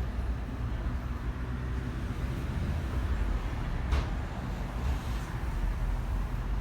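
Düwag M8C tram running along its line, a steady low rumble of running gear and wheels on rails, with one short sharp click about four seconds in.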